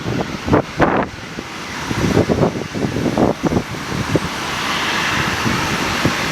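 Strong gusty wind buffeting the microphone in uneven thumps, with a steadier rushing noise building up near the middle.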